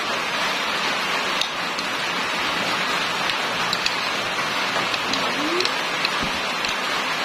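Steady rain: an even hiss with scattered small ticks of drops.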